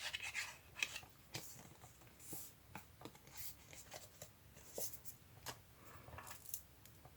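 Faint rustling, sliding and light tapping of paper pieces being handled on a craft table, in short irregular bursts.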